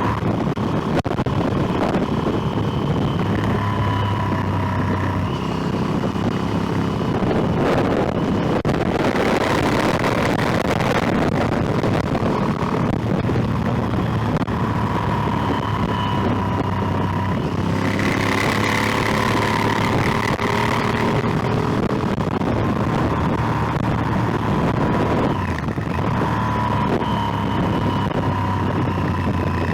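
Motorcycle engine running under way, with wind and road noise over the microphone; the engine note shifts a few times as the speed changes.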